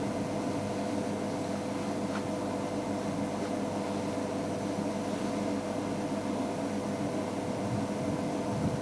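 Steady hum of a game-drive vehicle's engine running, with a constant low drone.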